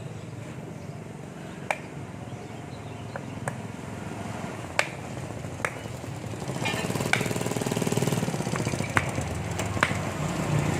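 Scattered sharp metallic clicks and taps of hand tools on metal parts, over a steady low hum. In the second half a louder, fast rattling machine noise swells up and then eases.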